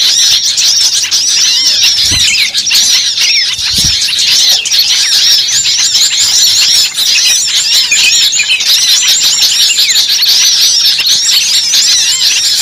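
A flock of birds chattering: many short, high chirps overlapping without a break.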